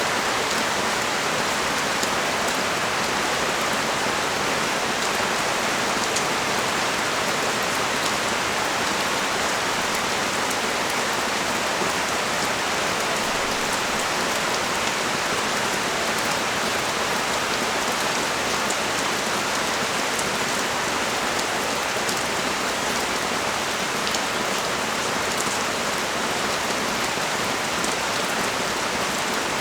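Steady heavy rain falling on the street and balcony surfaces, a dense even hiss with scattered drop ticks.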